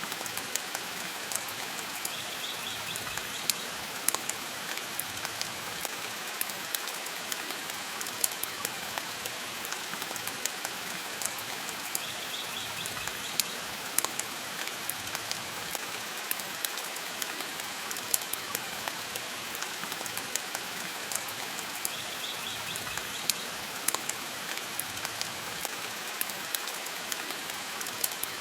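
Steady rain and a crackling wood fire: a constant hiss broken by scattered sharp pops and clicks throughout.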